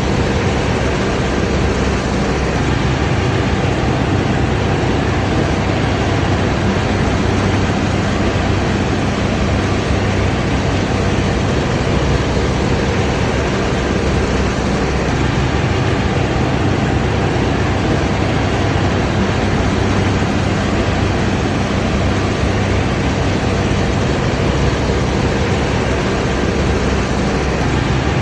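Combine harvester running: a steady, dense mechanical noise with a low engine hum.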